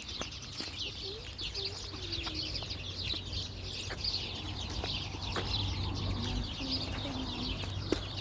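Many small birds chirping densely and continuously, with faint wavering lower calls beneath and a few sharp clicks.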